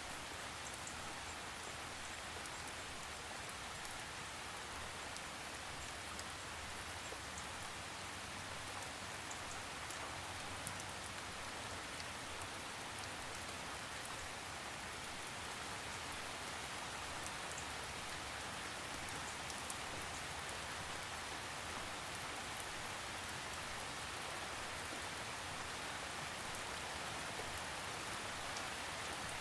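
Steady rain falling, a continuous even hiss with many small drops ticking on a surface, without thunder.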